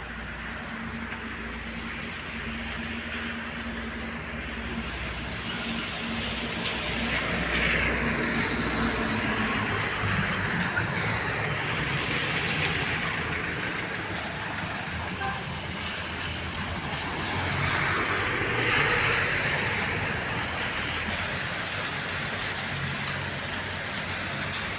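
Rain falling on a wet street with vehicles going by, the tyre hiss swelling and fading as each one passes, about three times.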